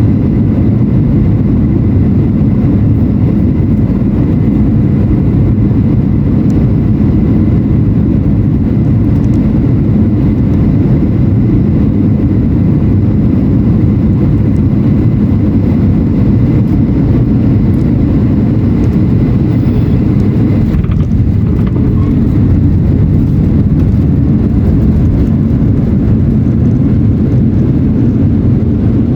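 Steady engine and airflow noise inside the cabin of a Boeing 737-800 with CFM56-7B engines, a loud low rumble with faint steady tones above it.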